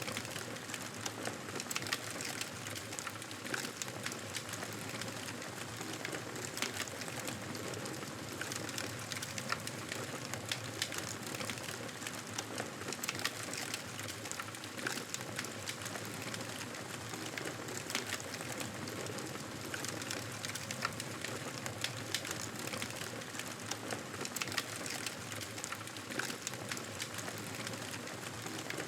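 Wood fire crackling steadily under a soft hiss, with frequent irregular sharp pops.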